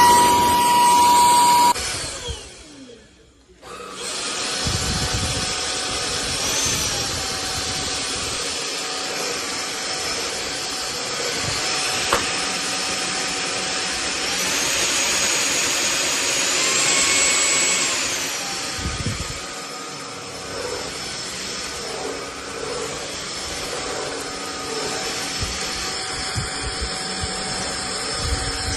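Cordless stick vacuum's motor whining. It stops about two seconds in and spins down, then starts again a couple of seconds later. Its pitch steps up for about four seconds midway before dropping back to a steady whine.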